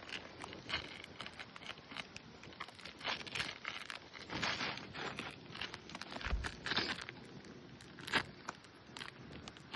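Irregular scraping and crackling from hands-on work on a brittle asphalt shingle roof, with a run of sharper knocks and a loud one about eight seconds in.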